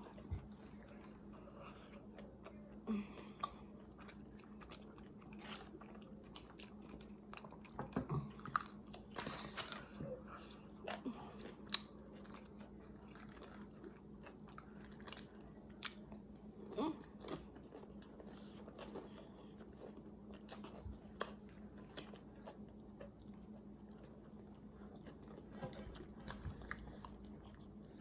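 Close-up chewing and biting of a fried chicken sandwich, with scattered soft crunches and mouth clicks, the loudest a few seconds in, around eight to ten seconds in and near seventeen seconds. A steady low hum lies underneath.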